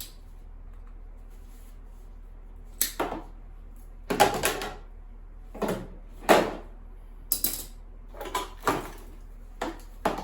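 Scrap pieces being handled and dropped into sorting bins: about eight irregular clunks and rattles, the loudest a little past the middle, over a steady low hum.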